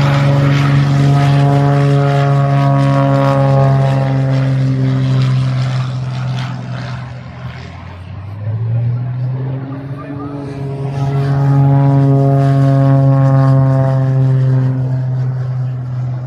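Propeller-driven aerobatic aircraft flying past, its engine and propeller droning loudly with a steady pitch. The sound fades about seven seconds in, then builds again for a second pass before dropping away at the end.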